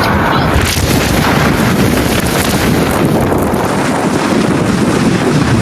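Strong wind blasting the microphone from a moving car, a loud, steady rush that covers every other sound.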